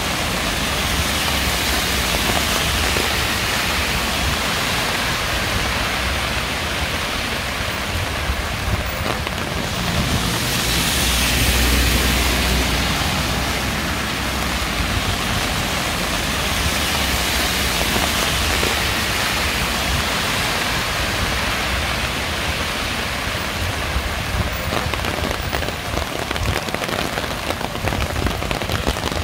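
Steady rain falling, swelling louder for a few seconds about a third of the way in, with separate drops ticking near the end.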